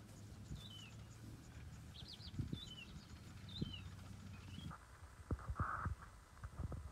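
Faint bird calls: a handful of short, twisting chirps over a low steady hum. Near the end the hum fades, and a few knocks and a brief rustle follow.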